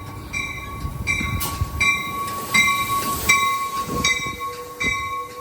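Amtrak Capitol Corridor passenger train rolling into the station, a rumble of wheels on rails with a few sharp knocks. Over it a ringing strike repeats about every 0.7 seconds.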